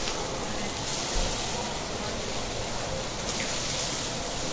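Heap of chopped cabbage sizzling on a hot teppanyaki griddle, a steady rain-like hiss.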